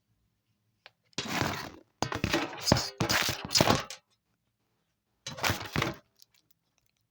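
Three bursts of loud crackling and rustling handling noise, as of plush toys being moved about close to the microphone, the middle one about two seconds long.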